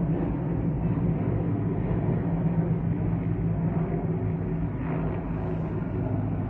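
Helicopters flying past, a steady low drone of rotors and engines.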